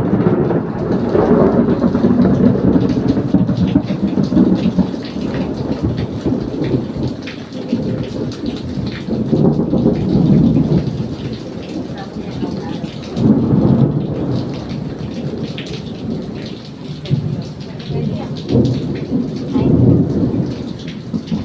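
Heavy rain pouring steadily, with thunder rumbling in several swells: one at the start, one around the middle, and another near the end.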